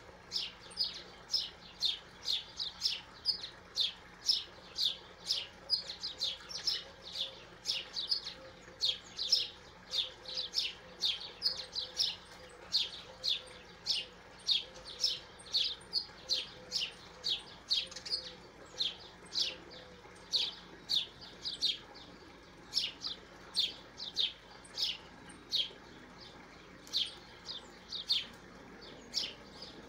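A small songbird chirping over and over: short, high chirps about two a second, kept up steadily with only brief pauses.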